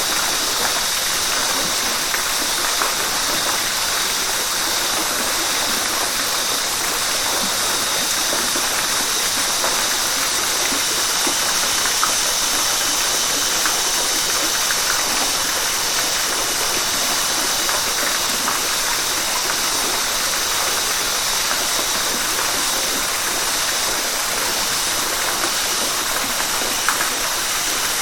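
River water rushing steadily over rocks, an even, unbroken rush of flowing water.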